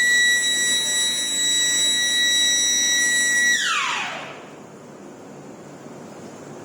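A loud, steady, high-pitched whine that winds down: it slides sharply down in pitch about three and a half seconds in and dies away, leaving only a faint hiss.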